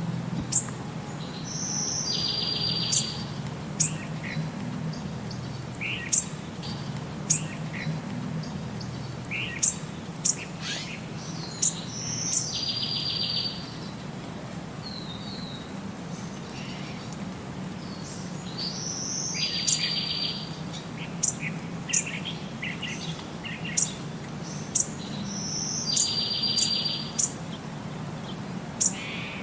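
Bird singing and chirping: many short, sharp high chirps, and four times a high note followed by a buzzy, rattling trill lasting about a second, over a steady low hum.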